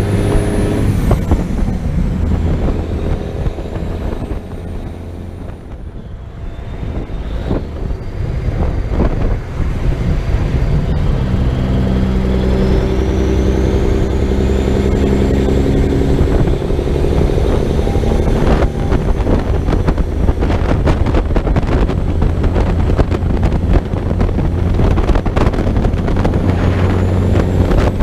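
Big-rig truck's diesel engine running steadily on the road, with tyre and wind noise. It eases off around five seconds in and builds back up over the next few seconds.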